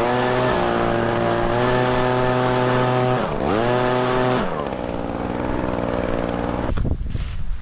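Two-stroke Echo PB-9010T backpack leaf blower running at full throttle. The throttle is let off and squeezed again twice, so the pitch dips and comes back up. About four and a half seconds in the engine drops toward idle, and near the end rumbling and knocks take over.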